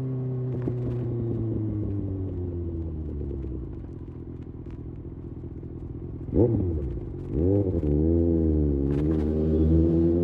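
Kawasaki Ninja ZX6R's inline-four engine, revs falling as the bike slows to low revs. About six seconds in comes a quick throttle blip. Then the engine pulls away louder, its revs rising and dipping.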